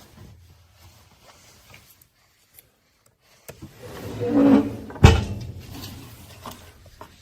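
Mostly quiet, then a short rising rush of sound and one sharp knock about five seconds in, dying away after it.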